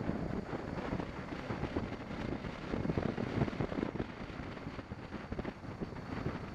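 Wind buffeting the microphone of a moving BMW 650 GS motorcycle, with the engine and road noise running underneath in uneven gusts.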